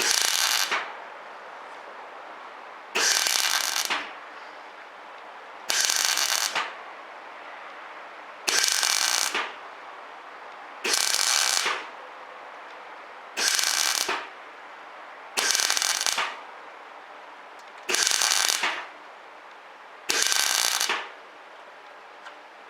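Semi-automatic (MIG) welder laying nine short welds, each a crackling buzz under a second long, about every two and a half seconds, as a patch plate is stitched onto a Jimny's bulkhead.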